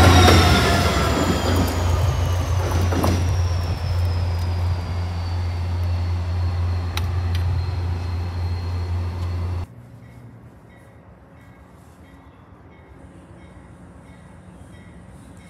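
A diesel commuter-rail locomotive and its coaches pass close by with a steady low engine drone and a high wheel squeal that slowly falls in pitch as the train moves off. About ten seconds in, the sound cuts off abruptly to faint outdoor background.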